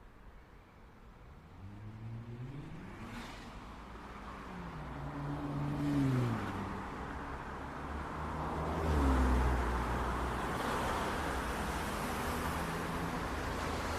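Street traffic: a car engine accelerating, its pitch rising and then dropping several times as it changes gear, building from quiet into a steady low rumble of traffic from about nine seconds in.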